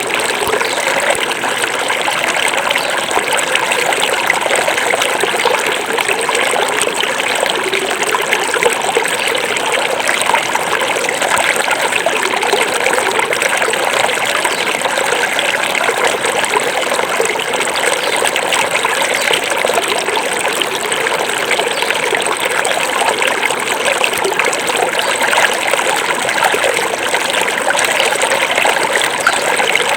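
Small forest river or stream flowing over stones: a steady, even babble and trickle of running water.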